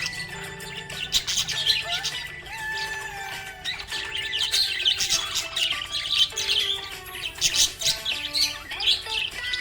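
Budgerigars chirping and chattering in quick, busy bursts, over a soft melody of held notes.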